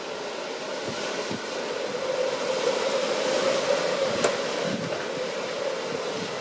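Strong wind blowing, gusting up to a peak a few seconds in and easing off again, with a steady low tone running under it.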